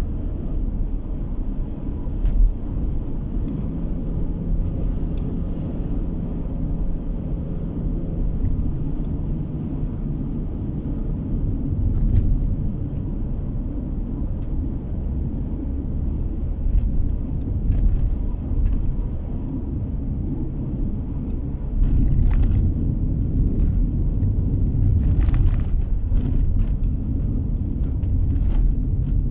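Car driving on the road: a steady low rumble of tyre and engine noise heard inside the cabin, with a few light clicks or knocks in the second half.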